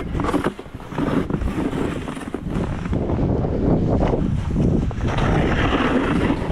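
Wind buffeting the microphone outdoors: a loud, uneven, low rumbling noise that swells and eases.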